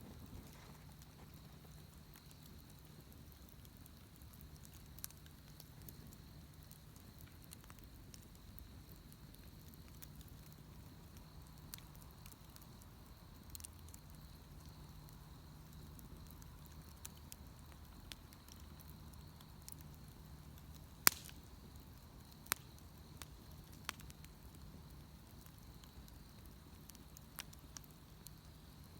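Wood bonfire crackling faintly, with scattered sharp pops; the loudest pop comes about two-thirds of the way through.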